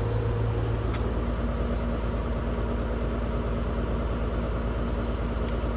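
Semi truck's diesel engine running steadily during a parked regen, the engine held running to burn soot out of the diesel particulate filter. A low, even hum with a fine regular pulse and a couple of faint clicks.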